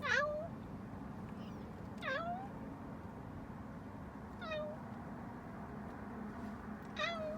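A cat meowing four times, short calls about two seconds apart, each dipping and then rising in pitch.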